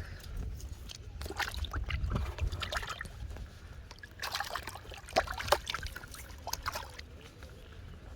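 Water splashing and trickling in two irregular spells of short splashes, then settling near the end.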